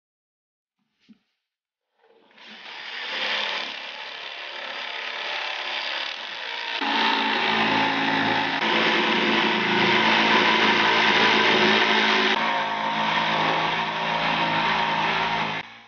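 A woodworking power tool starts about two seconds in and runs steadily, growing fuller and louder about seven seconds in, then cuts off suddenly just before the end. A faint click comes about a second in.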